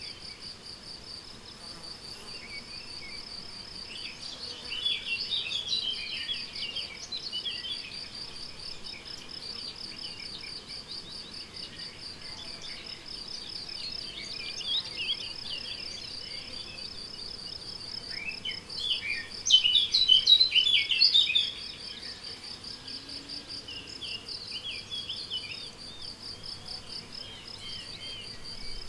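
A cricket chirping steadily in a high, evenly pulsed trill, with songbirds singing short phrases over it. A louder burst of birdsong comes about twenty seconds in.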